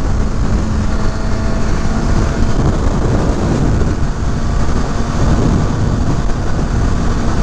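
Wind rushing over the microphone at highway speed, over the steady drone of a Kawasaki Ninja ZX-6R's inline-four engine cruising at constant speed.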